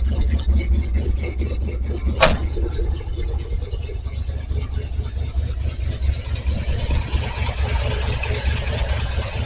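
Ford 390 FE V8 in a 1974 Ford F-350 idling steadily while still cold and warming up, with a sharp clank about two seconds in.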